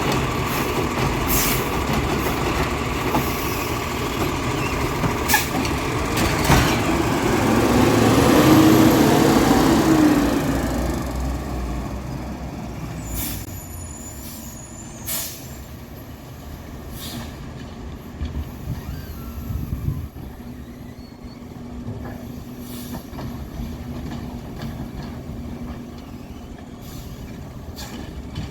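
Freightliner 108SD RotoPac side-loader garbage truck working: the engine runs loudly and revs up briefly about eight to ten seconds in, then settles to a quieter idle. Short, sharp hisses and clicks come throughout.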